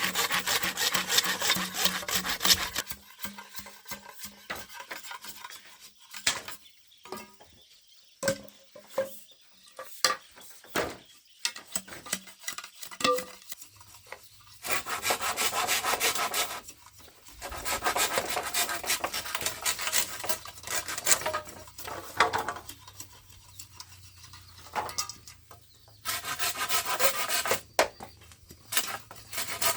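Bamboo being worked with a hand tool: runs of fast back-and-forth strokes, with a spell of scattered light knocks and taps in between from about three seconds in until about fourteen seconds in.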